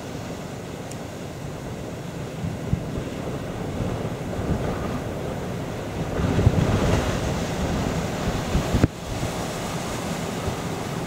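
Strong wind gusting across the camera microphone in a snowstorm, a rumbling rush that swells louder about halfway through, drops off for a moment, then carries on.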